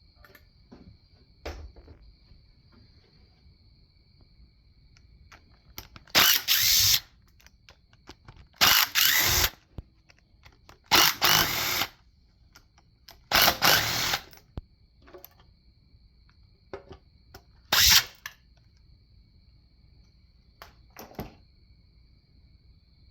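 A power tool runs in five short bursts of about a second each, with light clicks of tools between, as fasteners are worked during an engine teardown.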